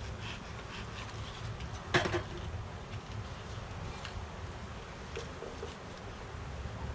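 A steady low rumble, with one sharp knock of wooden hive parts about two seconds in and a few faint clicks as the hive frames and boxes are handled.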